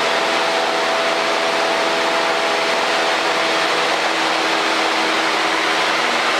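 Steady cockpit drone of a Cessna 152's four-cylinder piston engine and propeller in level flight, an even rushing noise with a few steady hum tones.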